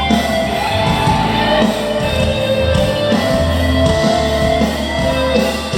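Live amplified rock-band music from a sound check, with guitar and bass over a steady rhythm and a sustained melodic line, heard in a large hall or venue.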